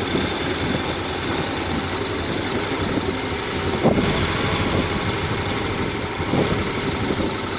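Honda NC750X's 745 cc parallel-twin engine running at low revs, a steady even pulsing, with a short thump about four seconds in.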